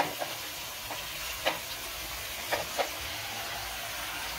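Oil sizzling steadily in a pot of fried onions and capsicum as raw chicken pieces are tipped in, with a few soft knocks of the chicken and the steel bowl landing against the pot.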